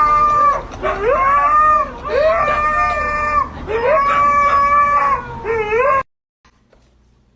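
A dog howling in a run of about five held calls, each rising in pitch at its start; it cuts off suddenly about six seconds in.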